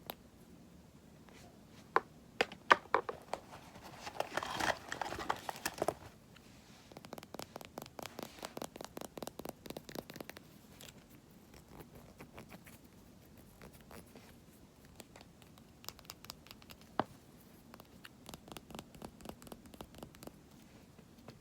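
Cosmetic containers being tapped and scratched close to the microphone: a few sharp clicks, a short stretch of scratching, then a quick run of light taps, about five a second, with scattered clicks and more tapping near the end.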